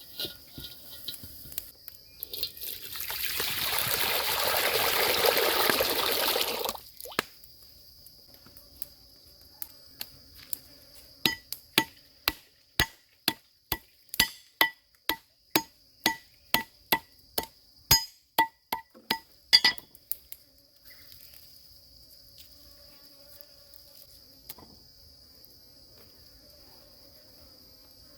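Liquid pouring for about four seconds, then a run of sharp knocks, about two to three a second for some eight seconds, over a steady high drone of insects.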